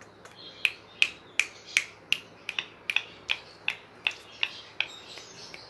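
A steady series of short, sharp clicks, about three a second, stopping about five seconds in.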